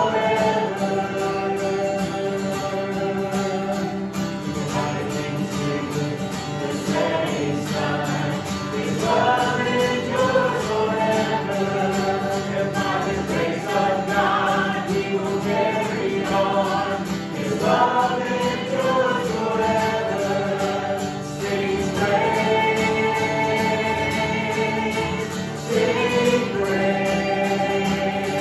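Voices singing a worship song together, with instrumental accompaniment.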